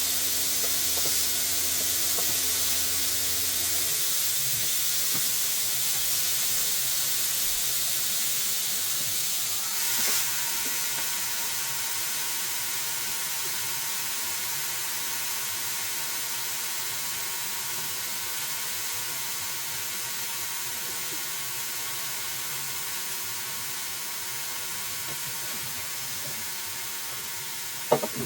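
Breaded chicken strips frying in hot oil in a pan, a steady sizzling hiss that slowly eases; a low hum underneath stops about four seconds in.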